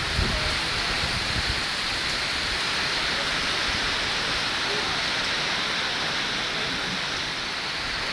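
Heavy rain falling steadily, a dense even hiss, with low buffeting of wind in the first second or so.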